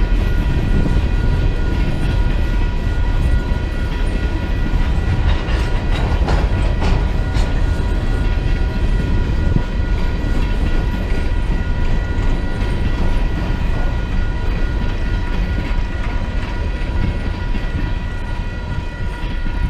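Train rolling on the rails: a loud, heavy low rumble of wheels and cars, with several steady high ringing tones held throughout.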